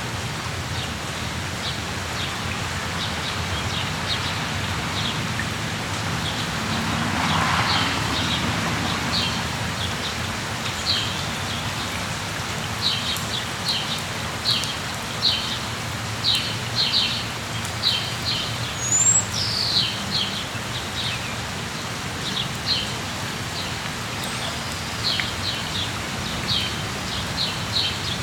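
Steady rain falling, with small birds chirping over it in quick runs of short, high notes that come thicker in the second half.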